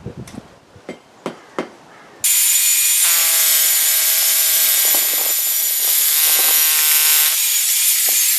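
A few light knocks and clicks, then about two seconds in an electric drill with a large bit starts abruptly and runs steadily under load, with a steady whine over the noise of the cutting.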